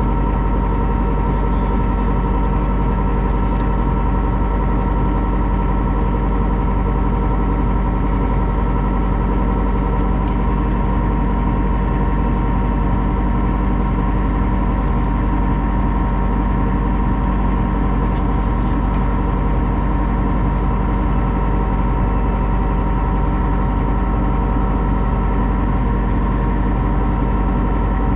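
A heavy tow truck's diesel engine running at a steady high speed, driving the hydraulic winches while the rolled log truck's front is being lifted. The pitch holds steady throughout.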